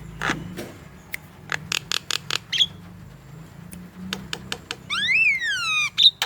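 Javan myna singing: a run of sharp clicks and short chirps, then near the end a loud whistle of about a second that rises and falls in pitch.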